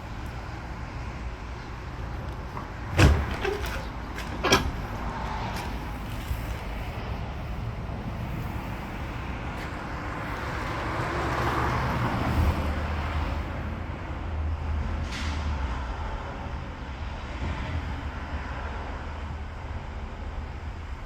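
A vehicle's steady low rumble, broken about three seconds in by two loud knocks a second and a half apart, with a rise and fall of noise near the middle.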